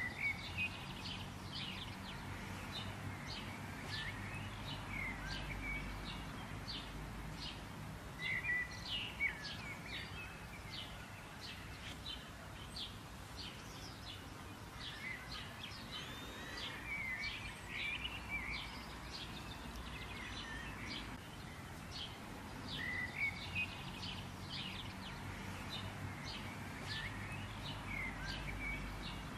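Small birds chirping and twittering, with many quick, sharp notes several times a second, over a steady low background rumble.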